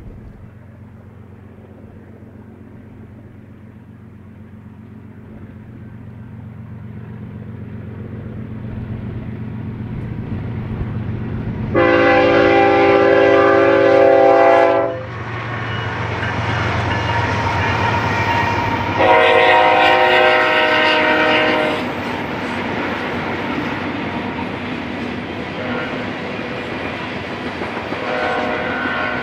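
Diesel freight locomotives approach with a low engine rumble that grows steadily louder, then sound the air horn in two long blasts about four seconds apart. A third, fainter blast begins near the end. As the locomotives pass, the freight cars roll by with a continuous clatter of wheels on the rails.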